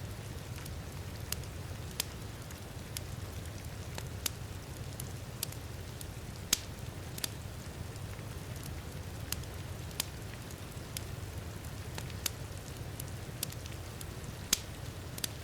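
Wood fire crackling, with sharp, irregular pops about one or two a second over a steady low rumble. Rain falls as a soft, even hiss.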